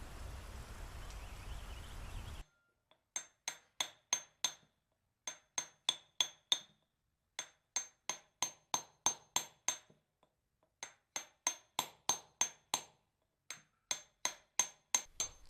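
Hammer striking a steel chisel on stone: runs of quick sharp taps with a metallic ring, about three a second, broken by short pauses. Before the taps start, a couple of seconds of steady hiss cuts off suddenly.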